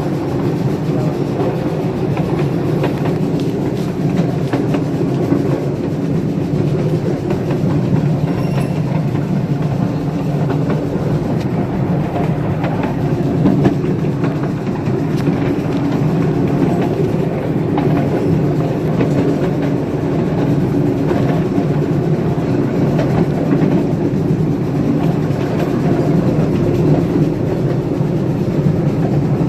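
Train ride heard from aboard the cars behind a live steam locomotive: a steady rumble with wheels clattering over the rail joints.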